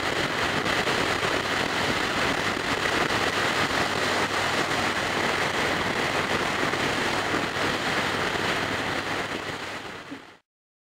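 Wind rushing over a helmet-mounted microphone on a Yamaha Raider cruiser motorcycle at highway speed, with the bike's running drone and a steady high whine mixed in, fading out and cutting off near the end.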